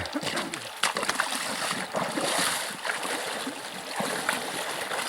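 Water splashing and sloshing in a flowing river, with a few sharp splashes about a second in and around four seconds.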